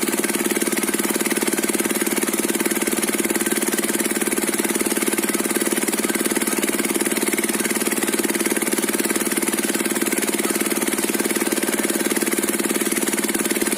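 Diesel engine of a circular-saw rig running steadily, with a fast, even pulse.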